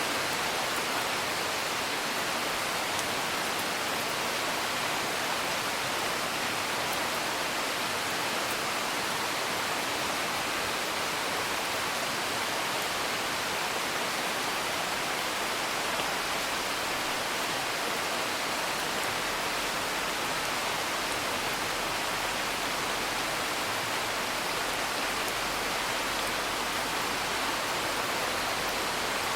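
Steady rain, an even hiss of rainfall, with a few faint crackles from a wood fire.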